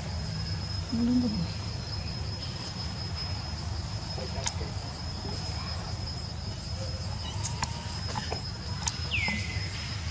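An insect calling with a steady, unbroken high-pitched trill over a low background rumble. A short high squeak that falls in pitch comes near the end.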